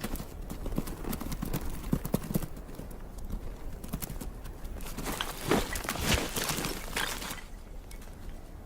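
Bharal (Himalayan blue sheep) hooves clattering and knocking on rock and loose stones, in two clusters of sharp clicks: one in the first couple of seconds, and a louder one from about five to seven seconds in.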